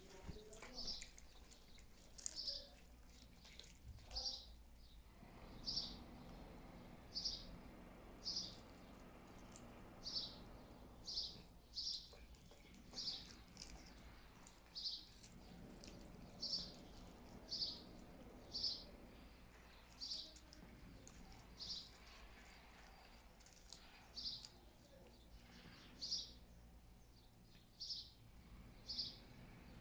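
A bird chirping over and over, short high-pitched calls roughly once a second with a few brief gaps.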